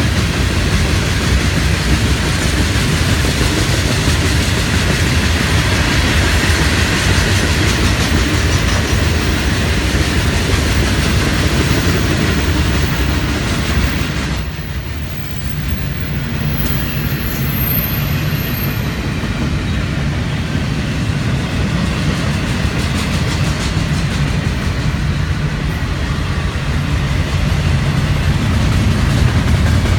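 Florida East Coast freight train rolling past, a steady loud rumble of wheels on rail with clickety-clack. The sound dips briefly about halfway through, then carries on.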